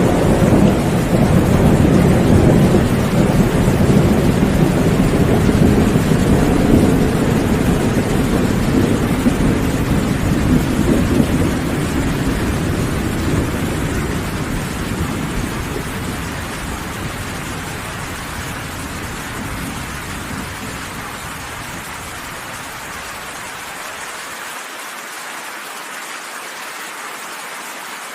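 Steady heavy rain with a long, low rolling of thunder that is loudest at first and slowly dies away over about twenty seconds, leaving the hiss of the rain alone.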